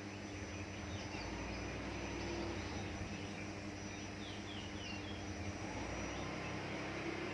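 A few faint, short, high bird chirps, each sliding downward, about halfway through, over a steady background hum and a low rumble that swells and fades.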